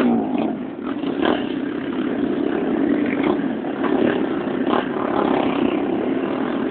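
Motorcycle engines running steadily, with short flares every second or so that may be small revs.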